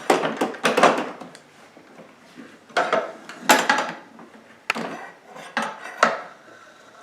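Clattering and knocking of a kids' John Deere pedal tractor's front loader and bucket: irregular clusters of sharp rattles in the first second, then a few more bursts about every second, with quiet gaps between.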